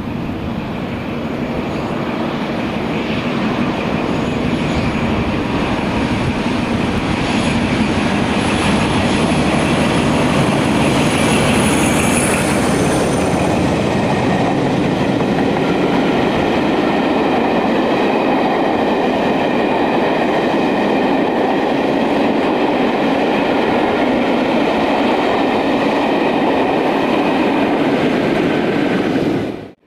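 A train passing close by on the main line: steady rolling noise of wheels on the rails that builds over the first few seconds and then holds, with a thin ringing squeal from the wheels. It cuts off abruptly at the end.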